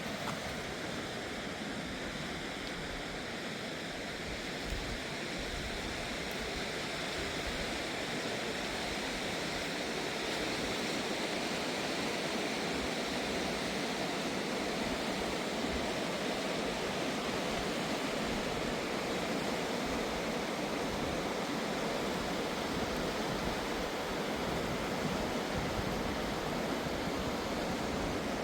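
Fast-flowing mountain river rushing steadily, a little louder from about ten seconds in.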